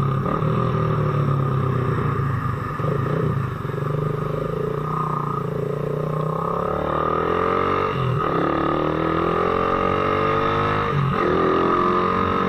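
Motorcycle engine running under way, speeding up with its pitch rising, then dropping sharply at gear changes about two-thirds of the way in and again near the end.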